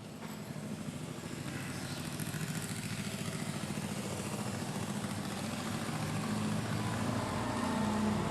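A motor vehicle's engine running and growing steadily louder, as if approaching.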